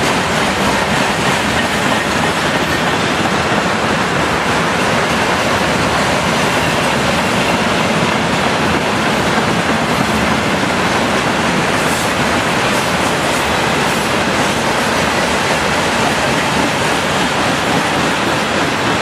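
2TE116 diesel locomotive running steadily under way, its 5D49 diesel engine giving the jet-like sound that earns the class the nickname 'Boeing', mixed with the clatter of wheels on the rails.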